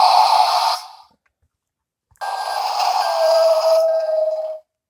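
Electronic sound effects from a battery-powered toy garbage truck playing through its small built-in speaker: one clip fading out about a second in, then a second clip with steady tones that cuts off suddenly just before the end.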